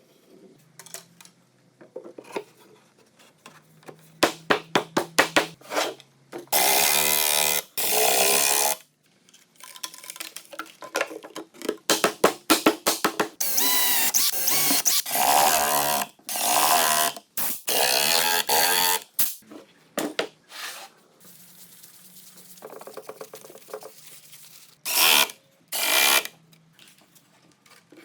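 Power tool run in short bursts of about a second each, with sharp clicks between them and a few quieter pauses.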